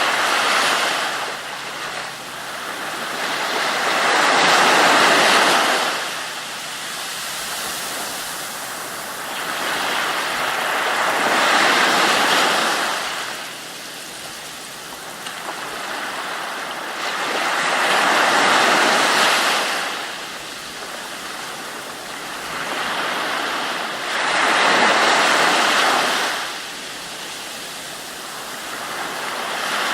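Ocean waves washing in and drawing back, a rushing surge that swells and fades about every six and a half seconds.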